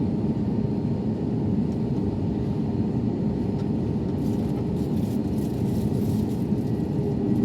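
Steady low drone of an Airbus A321neo airliner heard from inside the passenger cabin, its engines and air conditioning running at an even level with a faint low hum.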